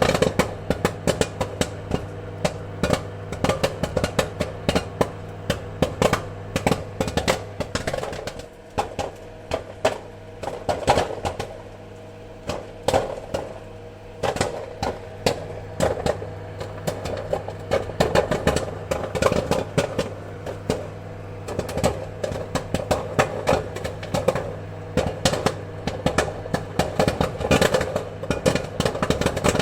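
Popcorn kernels popping: many sharp, irregular pops in quick succession, thinning for a few seconds near the middle, over a steady low hum.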